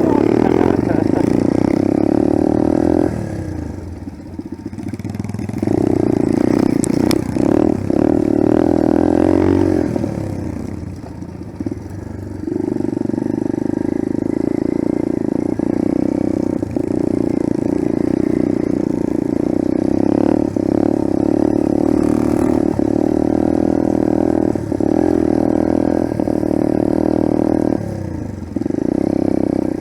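Small single-cylinder four-stroke dirt bike engine, a Yamaha TT-R125, heard from on board while riding. It runs hard under throttle, with the throttle closed briefly about three seconds in, again around ten seconds, and once more near the end before it pulls again.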